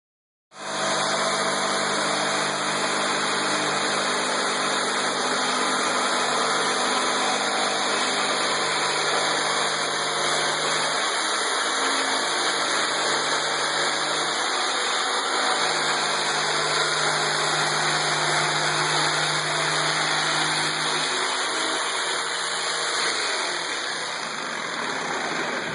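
Electric jigsaw running continuously, its hum shifting a few times, then winding down and stopping near the end.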